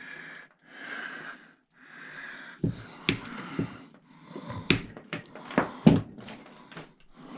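Heavy breathing close to the microphone, then a run of sharp clicks and knocks from small brass and copper scrap pieces and hand tools being handled and cut apart.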